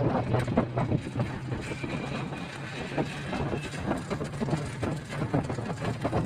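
A vehicle travelling on a road: a steady low engine hum under rushing, crackling noise from wind and the road.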